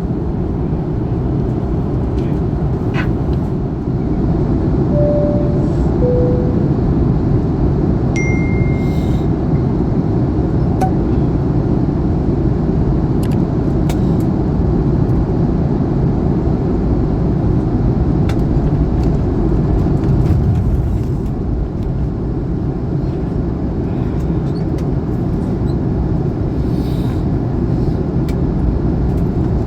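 Steady low rumble of cabin noise inside an Airbus A321neo on the ground before departure. A few faint clicks and a brief, faint two-note falling tone about five seconds in sit over it.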